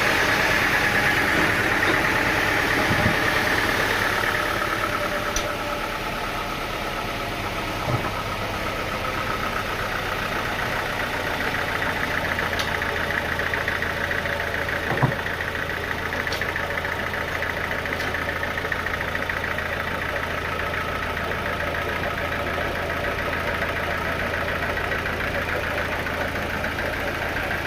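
Sawmill machinery running steadily with an engine, a continuous whine of the saw holding pitch, and a few short knocks at irregular intervals.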